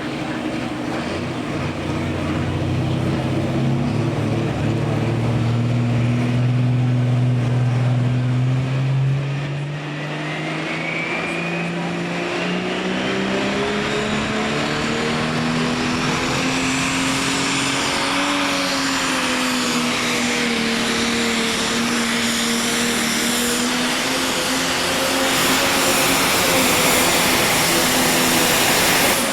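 Diesel pulling engine running hard under load during a pull: its note holds low at first, then climbs in pitch from about a third of the way in and stays high, with a high whine rising alongside as it climbs.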